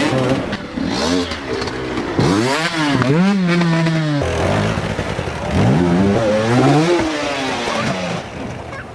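Dirt bike engine revving hard, its pitch climbing and dropping several times in quick succession, with one note held for about a second near the middle.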